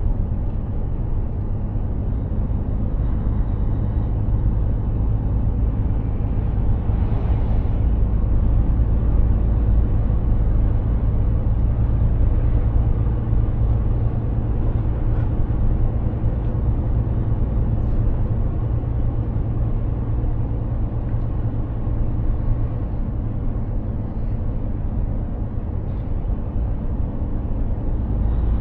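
Mercedes-Benz Actros 2763 truck's diesel engine running steadily under way, a continuous low drone mixed with tyre and road noise.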